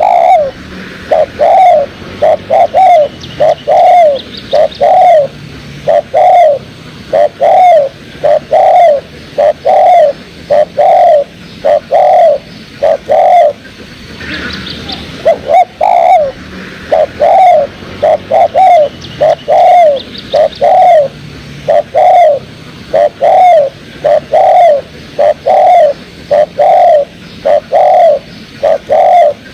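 Spotted dove (tekukur) cooing: a long series of rounded, rising-then-falling coos at a bit more than one a second, breaking off briefly about halfway before starting again. Fainter high chirps of other birds come in now and then.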